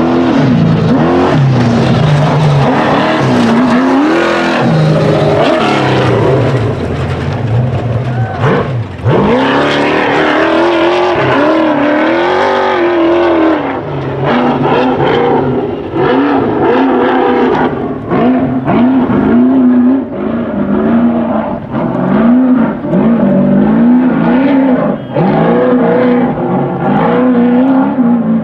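Trophy truck engine running hard, its pitch rising and falling again and again as the throttle is worked, with brief drops in loudness. Short knocks come through in the second half.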